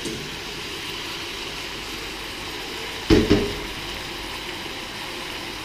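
Beef stir fry sizzling steadily in a wok, with two sharp knocks in quick succession about three seconds in.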